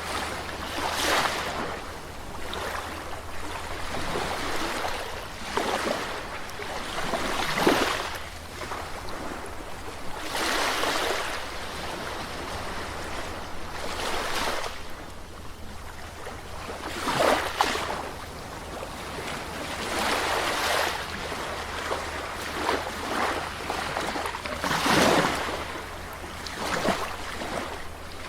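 Calm sea waves breaking and washing onto a beach, a swell of surf rising and falling every few seconds over a steady wash of water.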